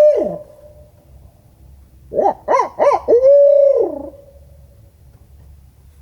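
Barred owl hooting: a long hoot trailing off and dropping at the start, then about two seconds in a quick run of three hoots ending in a long drawn-out hoot that falls away at the end.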